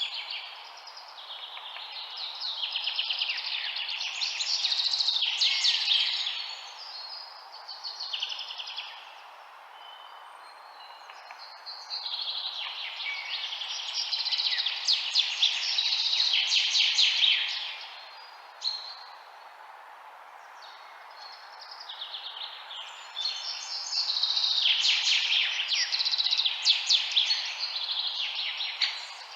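Many small birds chirping and twittering together in a dense, rapid chorus that swells and fades in waves every several seconds, over a steady background hiss.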